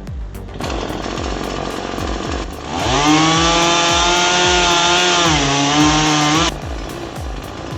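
Chainsaw revving up about two and a half seconds in and running at high speed with a steady whine, its pitch sagging a little as it takes the load of the cut, then stopping abruptly. Background music with a steady beat plays throughout.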